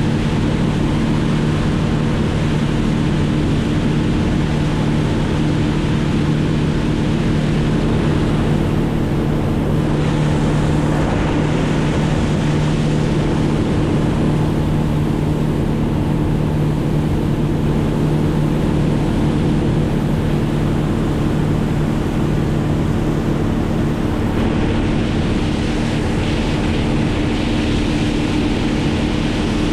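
Small engine running at a steady, constant speed, a continuous drone under a hiss of wind or rushing air.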